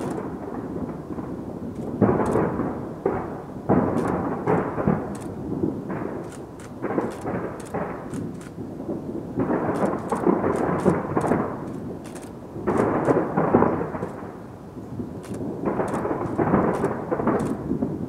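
Distant fireworks booming in a continuous rolling rumble, with sudden louder surges about 2, 4, 10 and 13 seconds in and faint crackling over the top.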